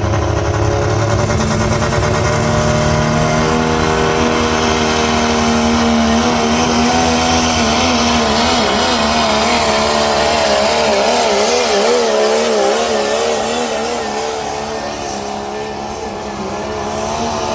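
Heavily modified 1997 Dodge pickup's turbo-diesel Cummins straight-six at high revs, pulling a sled down the track. The pitch climbs over the first few seconds as the turbo spools up, then wavers up and down under load, and the engine eases off a little a couple of seconds before the end.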